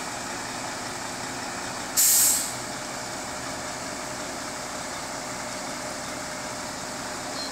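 Mack log truck's diesel engine idling steadily, with a sudden loud hiss of released air from its air brakes about two seconds in, lasting about half a second.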